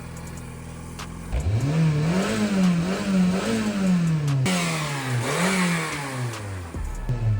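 Honda Civic engine idling, then revved hard several times, its pitch rising and falling again and again, dropping back near the end, as the car tries to drive out of deep snow.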